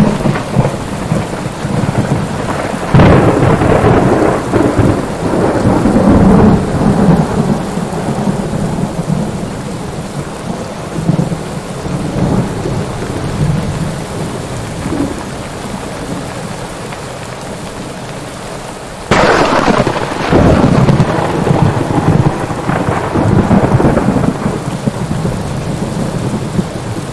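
Thunderstorm: steady heavy rain with two thunderclaps, one about three seconds in and a sharper crack about nineteen seconds in, each rolling on in a rumble for several seconds.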